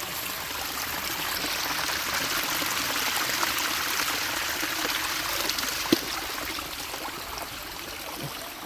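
Water running and splashing in a steady rush that builds over the first few seconds and eases off toward the end, with one sharp knock about six seconds in.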